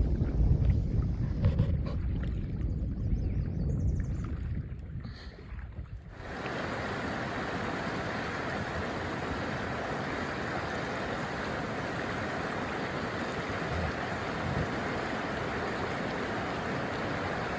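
Wind buffeting the microphone with a gusty low rumble for about six seconds, then an abrupt cut to the steady rush of whitewater rapids.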